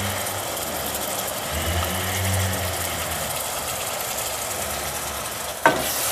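Onions and ginger-garlic paste frying in ghee in a steel pot, a steady sizzle with a low hum that comes and goes underneath. A single sharp knock near the end, a wooden spatula striking the pot.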